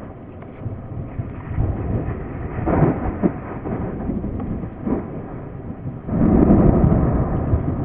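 Thunderstorm noise: a steady low rumble, with thunder rolling up loudly about six seconds in.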